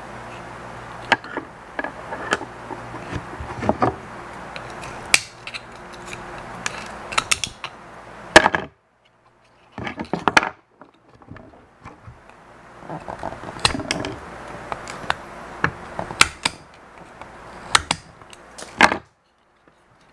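Small plastic and metal parts and hand tools clicking, tapping and knocking as an electronic counter is taken apart by hand. The knocks come irregularly, sometimes in quick clusters, over a steady low hum.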